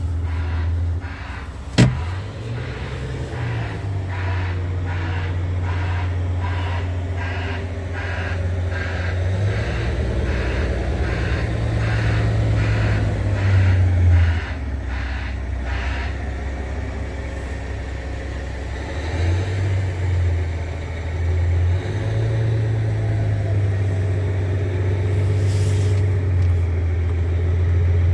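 Scania R tractor unit's diesel engine running, its low note stepping up and down several times as the revs change. A regular ticking about twice a second runs through the first half and then stops, and there is a single sharp click about two seconds in.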